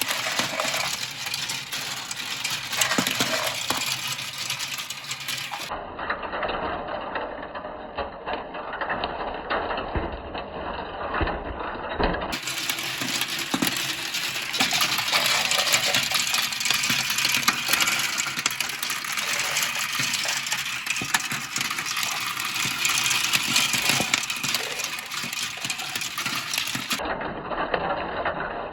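Many marbles rolling and clattering down a Kumikumi Slope marble run track: a continuous dense rattle of small clicks and ticks.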